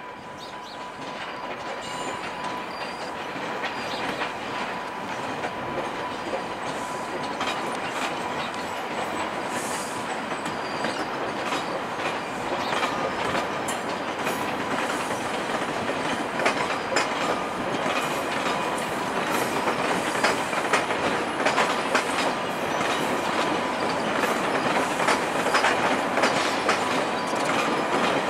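Two EMD F40PH-2 diesel locomotives, each with a 16-cylinder two-stroke engine, hauling a long passenger train slowly toward the listener: engines running, wheels clicking over rail joints, with some wheel squeal. The sound grows steadily louder as the train approaches.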